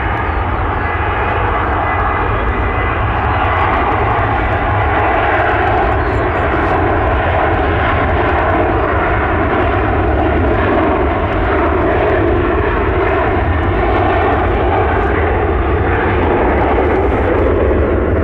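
Jet airliner engines running loud and steady, with a faint whine over the roar, growing slightly louder over the first few seconds.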